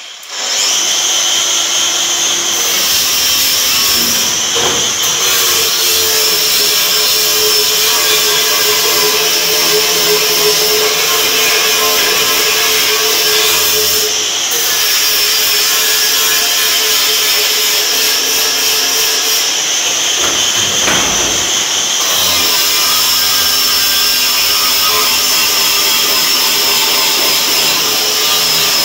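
Electric power tool fitted with stainless-steel wire brushes running steadily with a high whine, brushing metal. It eases briefly about halfway through and again around 21 seconds in.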